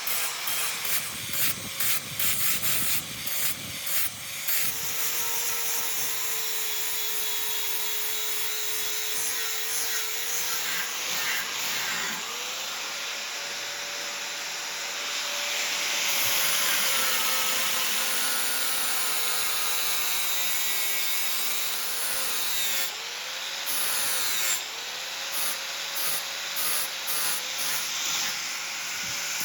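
A power grinder grinding the steel of a forged Damascus knife blade: a steady grinding hiss over a motor whine whose pitch wavers and dips as the steel is pressed in. Quick repeated strokes come at the start and again near the end.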